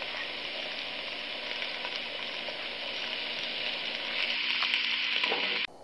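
Shredded chicken sizzling in a little hot oil in a pan as it lightly browns, a steady sizzle with a few faint pops. It grows a little louder about four seconds in and cuts off suddenly near the end.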